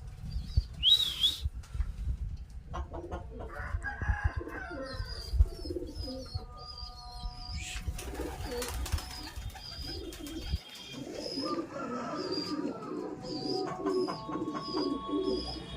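Birds calling: runs of low, cooing-like calls and a steady series of short high chirps, with one louder high call about a second in. Low rumbling bumps sound under the first two-thirds and stop about ten seconds in.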